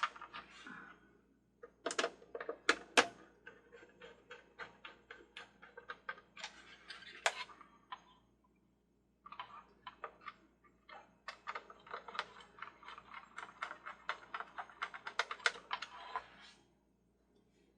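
Irregular clicking and tapping of small hard plastic carousel parts being handled and fitted together. The clicks are scattered at first, stop briefly around the middle, then come thick and fast for several seconds before ending near the end.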